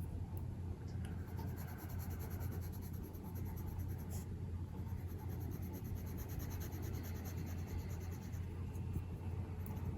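Coloured pencil shading on paper in quick, evenly repeated strokes, with a couple of small clicks and a steady low hum underneath.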